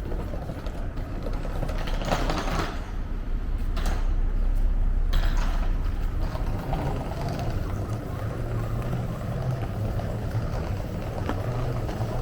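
Low, continuous rumble of a train moving through the station. It swells about a third of the way in, then settles into a steady low hum.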